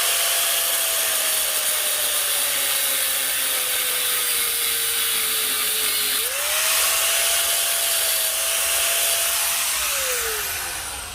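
Angle grinder grinding steel. Its motor whine sags slowly in pitch as it is pressed into the work, jumps back up when eased off about six seconds in, then winds down near the end.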